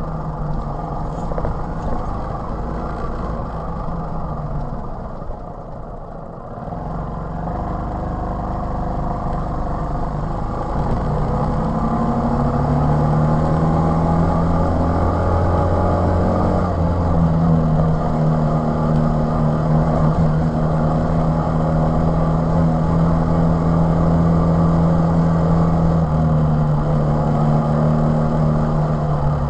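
TVS XL 100 moped's small single-cylinder four-stroke engine running under way: it eases off about five seconds in, then picks up and accelerates, and holds a steady, louder pitch for the rest of the ride.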